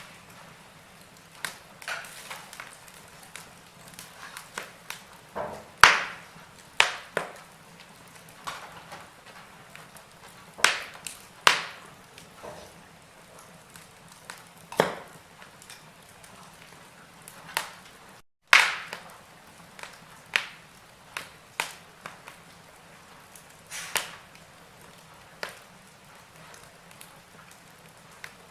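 Burning logs in a fireplace crackling: irregular sharp pops and snaps, a few much louder than the rest, over a faint steady hiss. A split-second gap of silence comes about two-thirds through, followed by one of the loudest pops.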